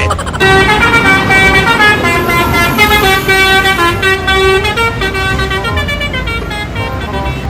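Bus 'telolet' horn: a set of air-horn trumpets playing a stepped multi-note tune over a low engine rumble. It is loud for about the first five seconds, then fainter.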